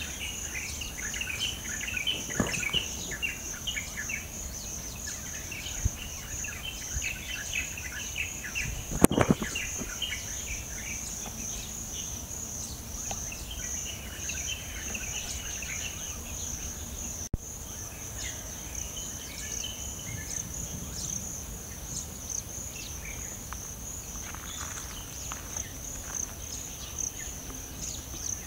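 Morning insects trilling steadily at a high pitch, with birds chirping over them, most busily in the first few seconds and again in bursts later on. A single thump about nine seconds in is the loudest sound.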